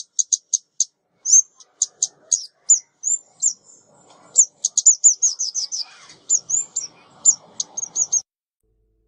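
Recorded call of a female ốc mít, a small songbird, used as a trapping lure: a quick series of short, high, sharp chip notes with a few fast twittering runs. The calls stop abruptly about eight seconds in.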